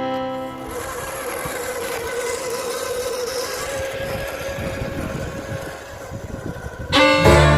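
Electric motor and gearbox of a scale RC Toyota BJ40 running with a steady whine, over a rough, noisy rumble.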